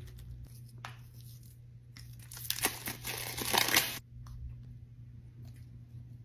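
Packaging crinkling and tearing in a dense crackly burst of about two seconds, with scattered small clicks before and after and a faint steady low hum underneath.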